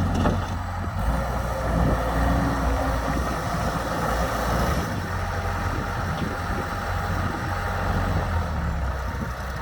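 Case 95XT skid steer loader's diesel engine idling steadily.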